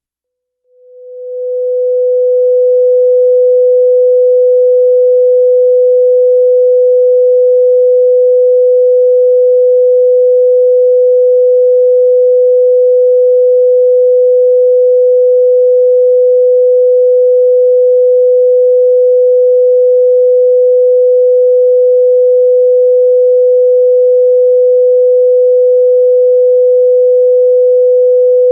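Steady 500 Hz sine-wave test tone, a single constant pitch that fades in from silence about a second in and then holds at full level.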